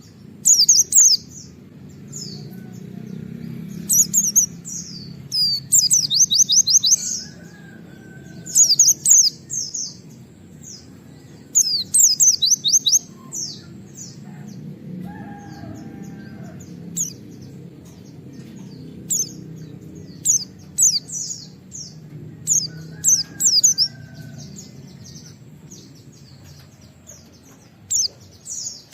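A white-eye (pleci) singing in loud bursts of rapid, sharp high 'wit-wit' notes, one quick phrase every one to three seconds. A steady low hum sits beneath.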